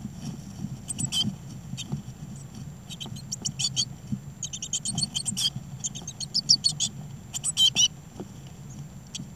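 Blue tit nestlings giving rapid, very high-pitched begging calls in bursts of quick chirps, several times, with a parent at the nest, over a steady low hum.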